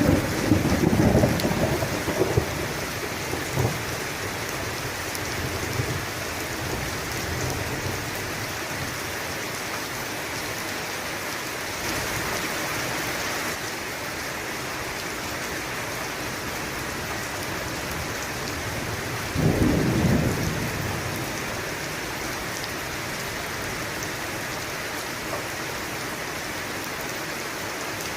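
Steady heavy rain falling, with two low rolls of thunder, one right at the start that rumbles on for a few seconds and another about two-thirds of the way through.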